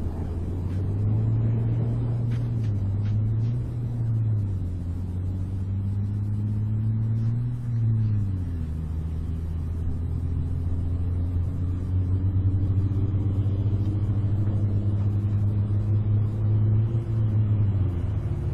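A low, steady engine drone whose pitch dips and recovers a few times, most noticeably about 8 seconds in and again near the end.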